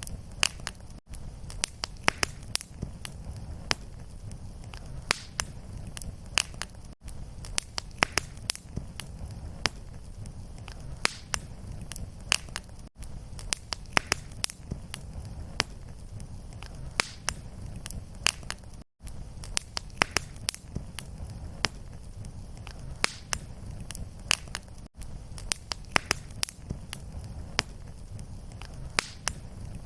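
Fireplace fire crackling: irregular sharp pops and snaps over a low steady rumble, broken by a brief gap about every six seconds.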